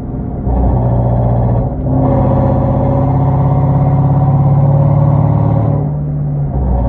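Hyundai Genesis 5.0's V8 running through a straight-piped 2.5-inch exhaust without catalytic converters, accelerating. The exhaust note picks up, dips briefly about two seconds in as it shifts, climbs slowly in pitch for a few seconds, then eases off before pulling again near the end.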